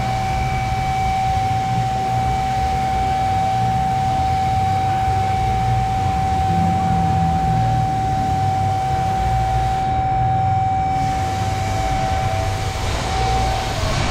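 A steady low mechanical rumble with a constant, unwavering whine over it.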